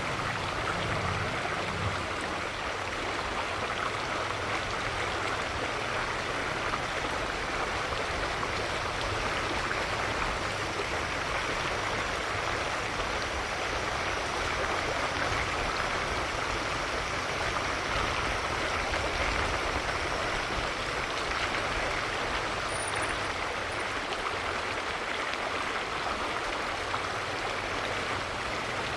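Steady, even rush of flowing water, like a mountain stream.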